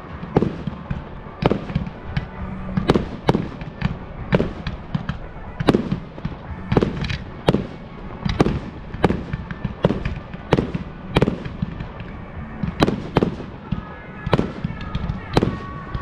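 Fireworks display: a rapid, continuous series of sharp bangs from firework bursts, about one or two a second, with smaller cracks in between.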